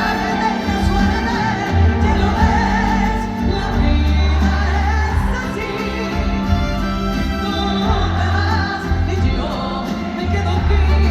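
Live concert performance of a song: a female singer with a full band and a heavy bass line.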